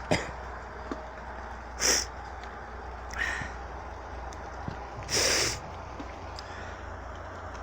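Steady hiss of heavy rain, broken by four short, sharp hissing bursts over the first six seconds.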